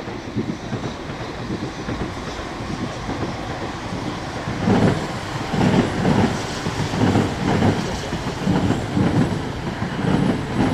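Train running past, its wheels clattering over rail joints with a rumbling, uneven beat that grows louder about halfway through.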